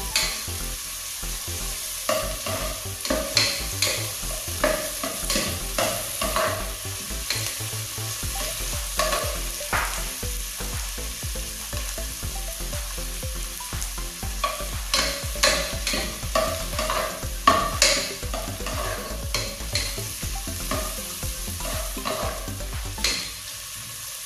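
Chicken pieces sizzling as they sauté in an enamel pot, stirred with a plastic spatula: a steady frying hiss broken by many quick scrapes and knocks of the spatula against the pot.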